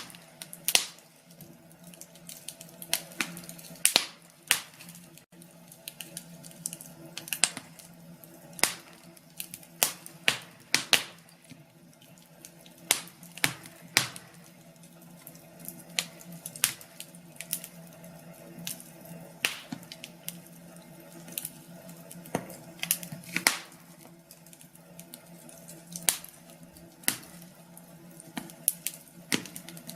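Wood fire crackling in a fireplace: irregular sharp pops and snaps, sometimes several a second, over a faint steady low hum.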